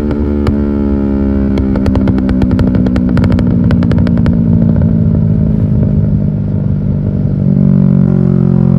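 Yamaha R6 inline-four motorcycle with an aftermarket exhaust, its engine note falling steadily as it decelerates. A rapid string of exhaust pops and crackles runs through the first few seconds, and the note settles to a steady tone near the end.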